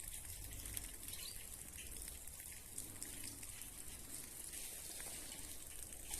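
Faint outdoor ambience: a steady high hiss with a few short, faint chirps of small birds.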